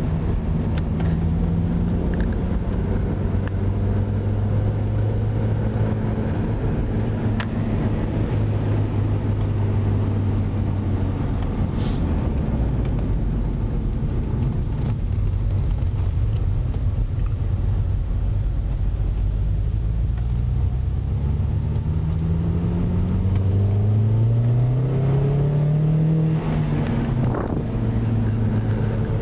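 Opel Zafira OPC's exhaust, fitted with a Milltek resonated system, giving a steady low drone from the turbocharged four-cylinder engine. About two-thirds of the way through, the revs climb for several seconds, then drop back suddenly and the drone settles again.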